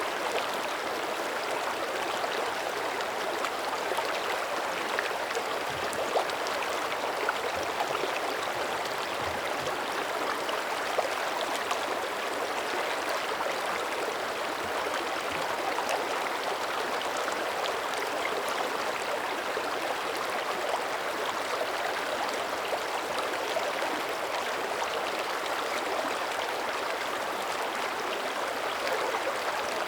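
Mountain creek running over rocks: a steady rush of flowing water with fine splashing and gurgling.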